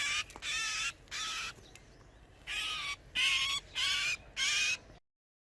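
Oriental magpie-robin giving short, harsh, rasping calls, about seven in quick succession with a brief pause around two seconds in.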